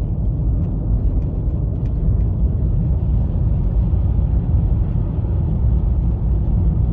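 Steady low road and engine rumble inside the cabin of a 2020 Honda Fit driving on a snow-covered road.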